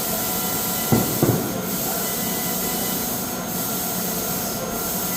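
Steady hissing machine noise in a metal-cutting workshop, with several fixed tones in it. Two sharp knocks come about a second in, a fraction of a second apart.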